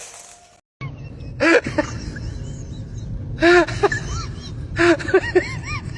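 A pet's repeated short cries, each rising and falling in pitch, about every second and a half over a low rumbling background, starting after a brief drop to silence about a second in.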